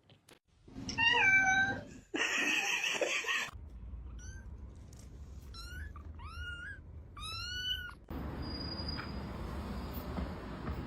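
A cat meowing: one call about a second in, then a run of short meows, each rising and then falling in pitch, between about four and eight seconds in.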